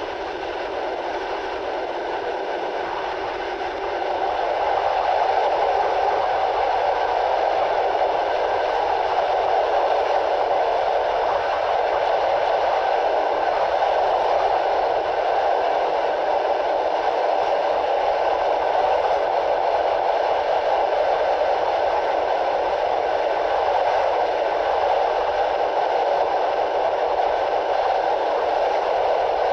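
Steady running noise of a moving passenger train heard from an open carriage window: a rush of wheels on rail and air, with the wind noise cut down by processing. It grows louder about four seconds in.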